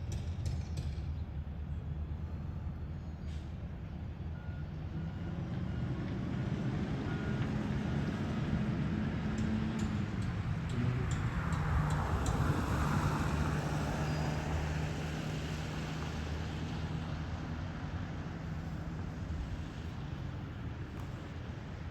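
Garbage truck engine running, revving up and then settling partway through, with a swell of noise at the peak. A faint reversing beeper sounds a few seconds in.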